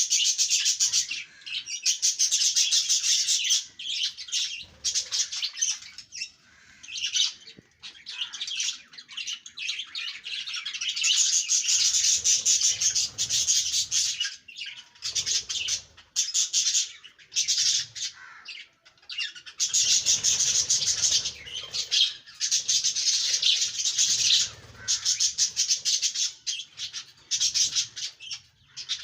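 A flock of budgerigars chattering and warbling, in runs of a few seconds broken by short pauses.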